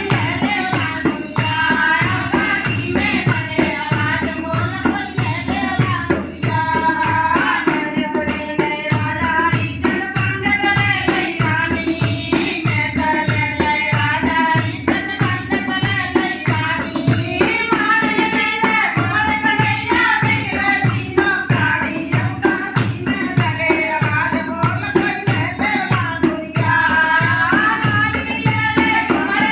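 A languriya, a Hindi devotional folk song, sung to a steady drum beat of about two strokes a second, with jingling tambourine-like percussion ticking along.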